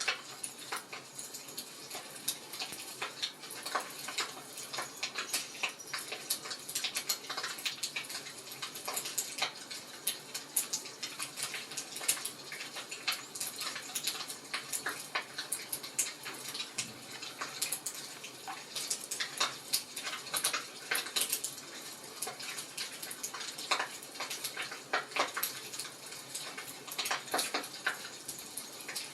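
Wood fire crackling: dense, irregular snaps and pops over a soft hiss.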